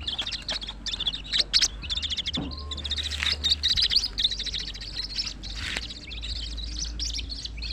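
Several small birds chirping rapidly and continuously in high overlapping twitters, with a few sharp click-like notes mixed in, over a steady low hum.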